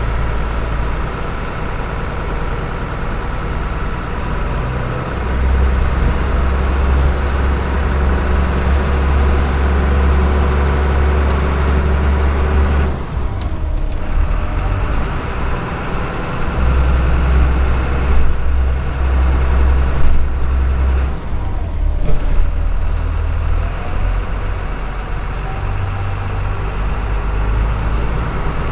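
Caterpillar 3116 inline-six diesel in a school bus, idling after a cold start, with the engine note growing heavier a few seconds in and shifting a few times.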